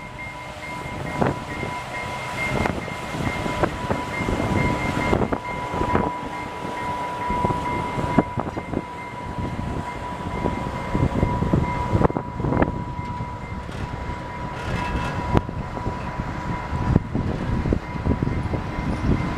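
Train rolling past, its wheels clacking irregularly over rail joints, with a thin steady whine over the rumble of the cars. Some wind on the microphone.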